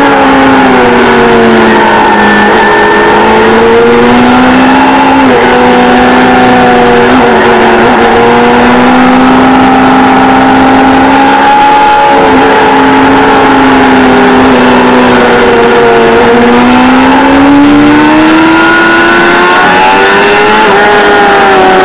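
Kawasaki ZXR400 inline-four sport-bike engine running hard on track, heard close up. Its pitch eases down at first and holds fairly steady with a few brief breaks. It dips about sixteen seconds in, then climbs and falls off again near the end.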